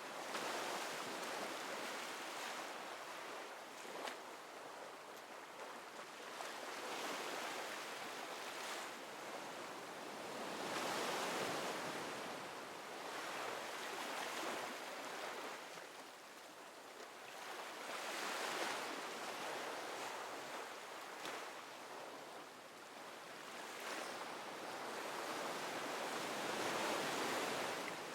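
Ocean waves washing onto a shore, the surf swelling and falling back every few seconds in a steady hiss.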